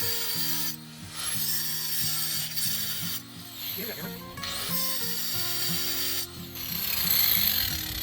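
Ratchet wrench clicking in long runs with short pauses between them as a bolt is worked loose, over background music.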